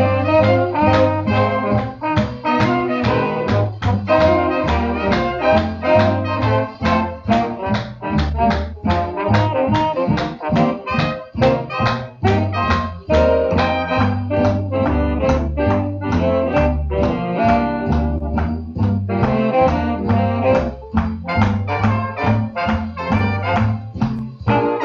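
Swing jazz by a big band with trombones, trumpets and saxophones over a steady beat, played as recorded dance music.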